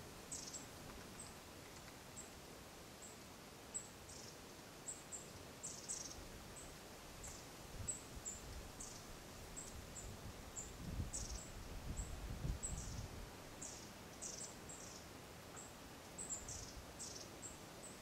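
Small birds' thin, high calls: short high peeps repeated irregularly throughout, with quick falling notes mixed in. A soft low rumble comes and goes partway through.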